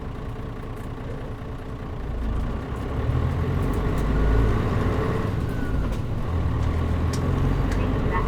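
Engine of a 2003 Mitsubishi Fuso Aero Star city bus (KL-MP37JM), heard from inside the cabin. It starts low and steady, then grows louder from about two seconds in as the bus pulls away under power. The low sound dips briefly around six seconds in and builds again.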